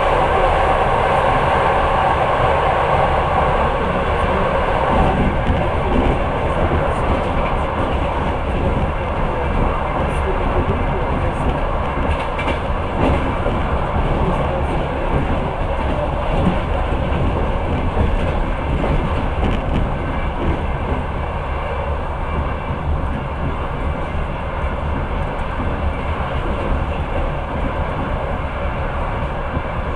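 Passenger train running along the track, heard from inside the carriage: a steady rumble and rush of wheels on rail, brighter for the first few seconds and then settling lower.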